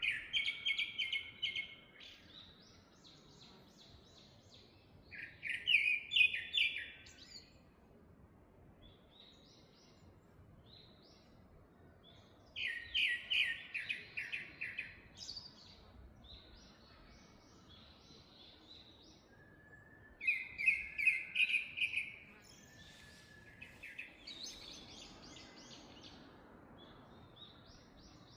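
Forest songbirds singing: one bird repeats a loud, fast phrase of rapid notes, each about two seconds long, four times at intervals of roughly seven seconds. Fainter, higher calls from other birds come in between.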